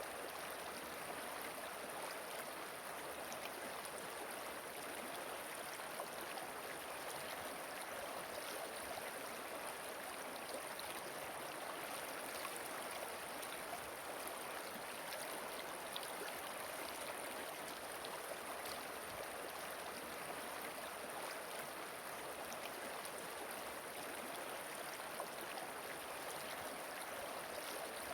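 River water rushing steadily, an even flowing noise with small splashes scattered through it.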